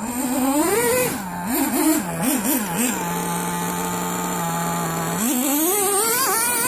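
Small nitro glow engine of a Traxxas T-Maxx RC truck, a Dynamite Mach 19 set on the rich side, revving up sharply, blipping the throttle a few times, then settling to a steady idle for about two seconds before revving up again near the end.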